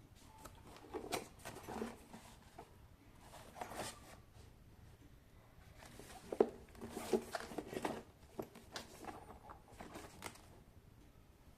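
Packaging being handled and opened: irregular rustling, scraping and sharp clicks in bursts, loudest about six to eight seconds in.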